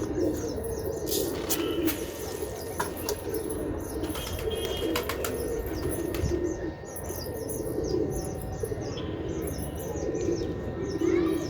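Pigeons cooing in low, repeated warbles, with a flurry of wing flaps in the first few seconds and again briefly mid-way. Rapid high bird chirps go on throughout.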